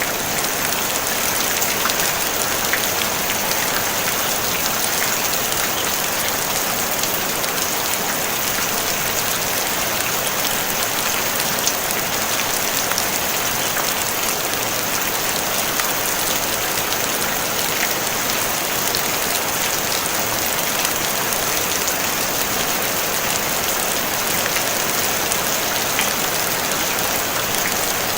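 Steady rain falling on a tin roof: a dense, even patter of many small drops with fine ticks throughout.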